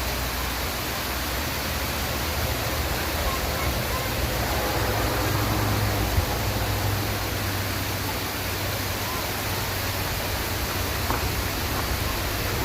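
Waterfall: a steady, even rush of falling water, with a brief knock about six seconds in.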